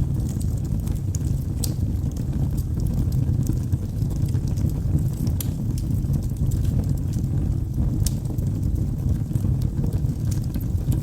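Wood logs burning in a fireplace: a steady low rush of flame with scattered sharp crackles and pops from the burning wood.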